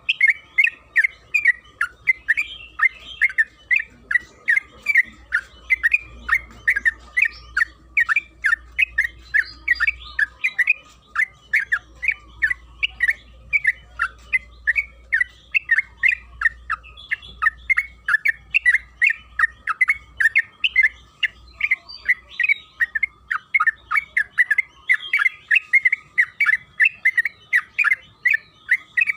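Yellow-vented bulbul (trucukan) singing a long, unbroken run of quick chattering notes, about three to four a second, the long continuous 'ropel' song used to provoke other bulbuls into calling.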